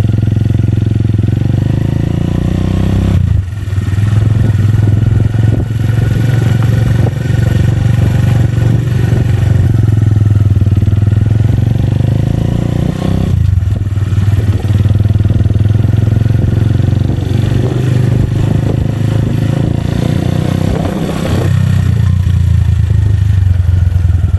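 Motorcycle engine running loud through an Akrapovic aftermarket exhaust with its dB killer removed, ridden at steady throttle; the exhaust note dips briefly three times, about three seconds in, near the middle and near the end, then picks up again.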